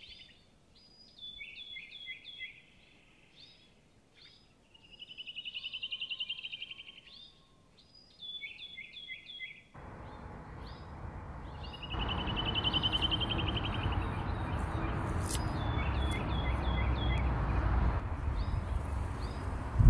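Songbirds calling: short repeated chirps and a fast buzzy trill, several times over. About ten seconds in, a steady outdoor background noise comes in and grows louder, and the bird calls die away soon after.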